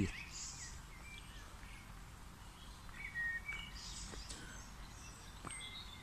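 Small birds chirping and singing in short, scattered calls from the surrounding trees, over a faint steady low rumble.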